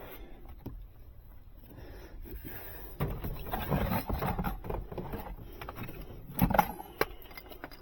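Work handling noise: irregular rustling and scraping with scattered clicks and knocks, busier from about three seconds in, with one louder knock about six and a half seconds in.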